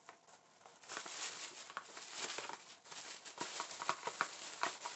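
Hands unwrapping a small packaged item: packaging rustling and crinkling with small clicks and knocks, starting about a second in.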